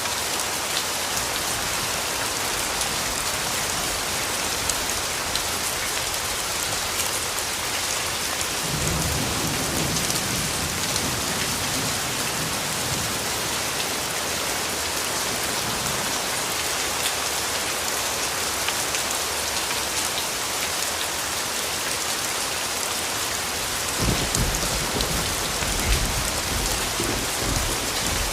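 Steady rain falling, with distant thunder rumbling low twice: once for a few seconds about a third of the way in, and again near the end.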